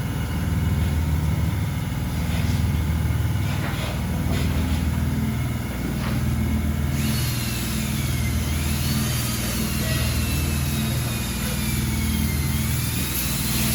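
Low, steady machine running with a pulsing rumble. About halfway through, a hiss and a faint wavering whine join in.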